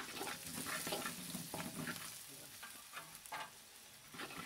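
Chili paste, garlic and shallots sizzling in hot oil in a wok, with a metal spatula stirring and scraping against the pan in repeated short strokes.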